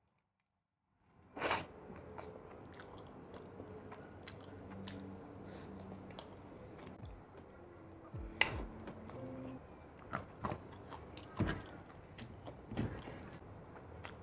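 Close-miked eating: biting and chewing chicken off the bone and mouthfuls of rice, with wet mouth clicks and an occasional crunch. It starts about a second in, after dead silence, and has a few louder bites scattered through.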